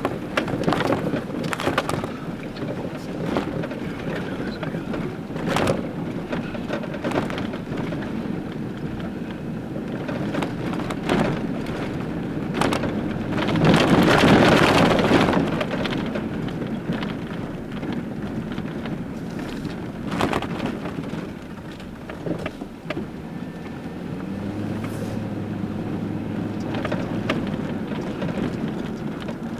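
Delivery truck running as it manoeuvres, with scattered knocks and clicks and a louder swell about halfway through.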